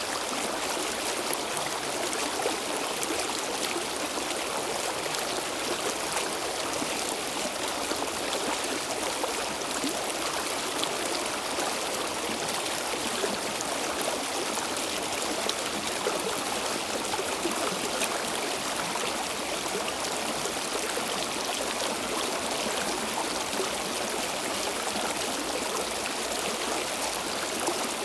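Stream water flowing steadily over rocks, a continuous even rush with fine splashing and trickling.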